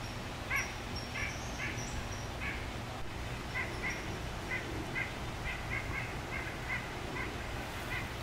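A bird calling in a string of short, repeated notes, about one or two a second and coming closer together near the end, with a few higher chirps in the first two seconds.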